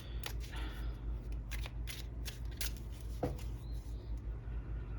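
Tarot cards being handled: a run of irregular sharp card flicks and snaps as cards are drawn from the deck and laid down, with one louder tap a little after three seconds in, over a steady low hum.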